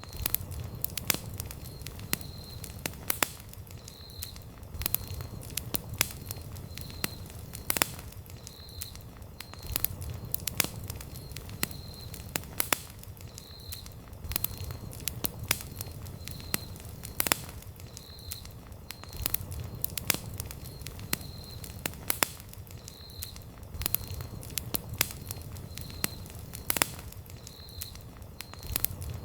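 Wood campfire burning, with sharp irregular crackles and pops over a low rumble of the flames. A faint high chirp repeats about once a second underneath.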